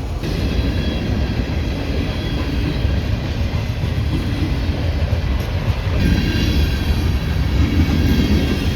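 Freight train rolling past: a steady rumble of wheels and railcars on the rails. Faint high ringing tones grow louder about six seconds in.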